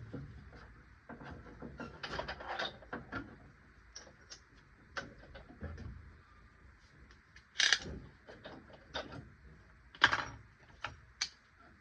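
Scattered clicks and clanks of metal tools and parts being handled while working on a car, with two louder knocks about eight and ten seconds in.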